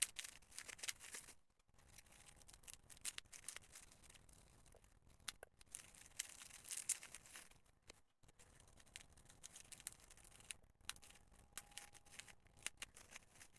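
Faint rustling and handling of parcel packing material, with scattered light clicks and crinkles as the package is unwrapped.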